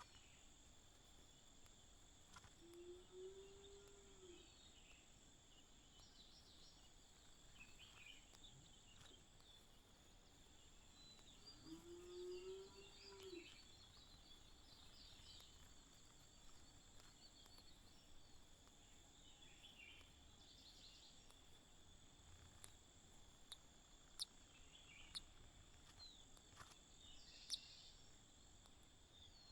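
Faint outdoor ambience: a steady high insect drone with scattered faint bird chirps. Two low, arching calls come about ten seconds apart, and a few sharp clicks sound near the end.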